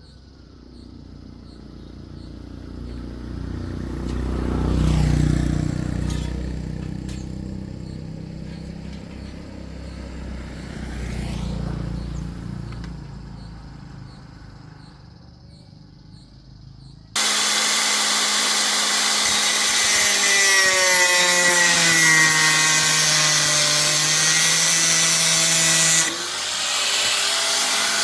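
A power tool starts abruptly partway through and runs loudly for about nine seconds, its pitch sagging and recovering as it is loaded, then carries on at a lower level. Before it, a sound swells and fades twice.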